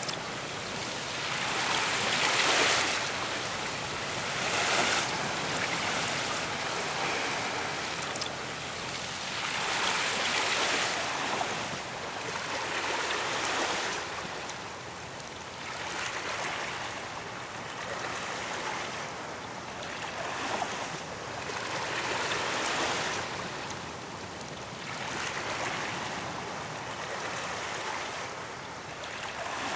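Ocean waves breaking on a beach, the surf swelling and receding every few seconds in an unbroken wash.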